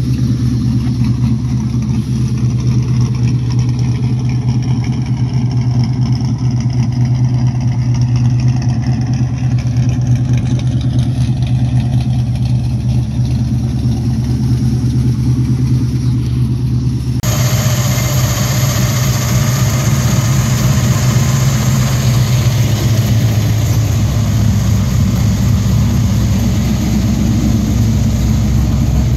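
1980 Ford XD Falcon's 351 Cleveland V8 with a custom-grind camshaft idling steadily with a deep rumble. About two-thirds of the way in the sound turns suddenly brighter and a little louder.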